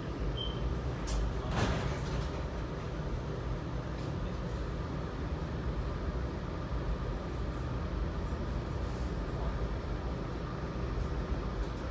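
Steady low rumble of a Metra commuter train on the move. Two sharp clicks and a brief high chirp come in the first two seconds.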